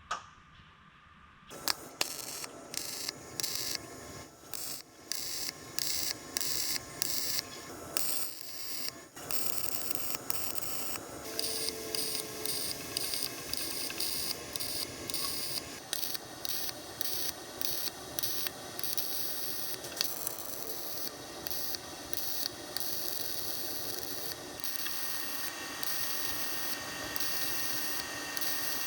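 Welding on car body sheet metal in a series of short crackling bursts, about one or two a second, as the welds are laid one after another. The bursts run closer together, nearly continuous, near the end.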